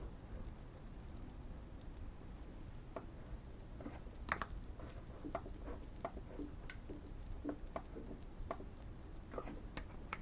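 Irregular spurts of typing on a Keychron Q1 mechanical keyboard with Fierce Girl switches and tape and PE-foam mods. The keystrokes pick up about three seconds in, over a soft, steady fireplace crackle.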